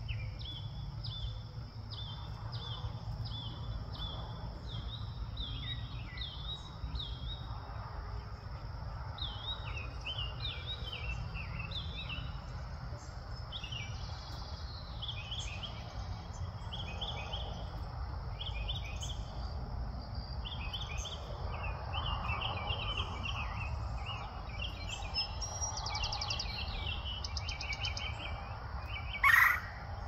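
Birds chirping, short notes repeated once or twice a second, over a steady low rumble. One loud sharp knock about a second before the end.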